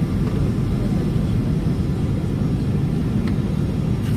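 Steady low rumble of cabin noise inside a Boeing airliner in flight on approach to landing.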